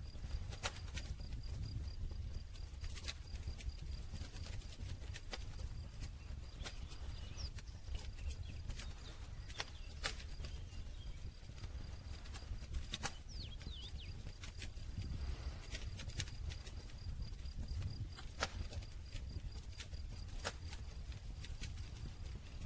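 Wood campfire crackling, with irregular sharp pops and snaps scattered over a steady low rumble of the flames.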